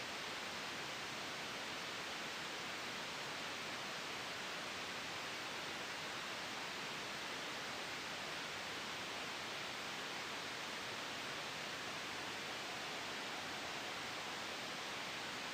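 Soft white noise for sleep and noise masking: an even, steady hiss with no swells or changes.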